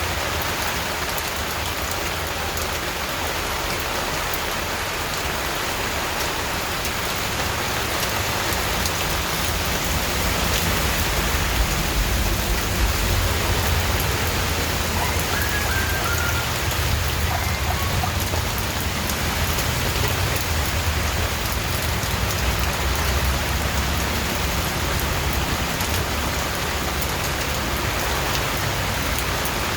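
Steady rain falling on a surface: a continuous, even hiss of many drops. A low rumble swells underneath through the middle and eases off near the end.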